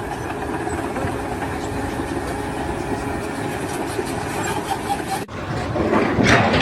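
An engine running steadily, with a low rumble, that cuts off abruptly about five seconds in and gives way to a different, louder noise.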